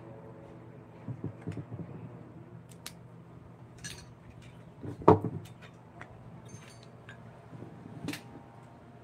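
Scattered clinks and knocks of small hard objects being handled, with one much louder knock about five seconds in, over a steady low hum.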